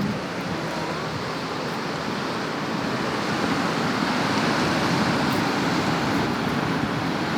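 Steady wash of ocean surf breaking on the shore, swelling slightly midway.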